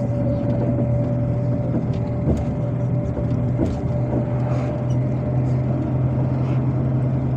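MAZ-257 bus heard from inside the passenger cabin while under way: a steady engine and road drone with a constant low hum, and a few light rattles.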